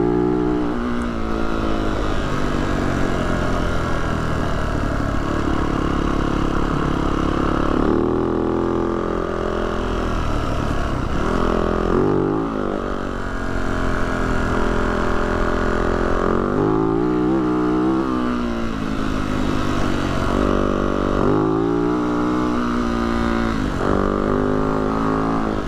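Yamaha YZ450F dirt bike's four-stroke single-cylinder engine running continuously, its pitch rising and falling again and again as the throttle opens and closes.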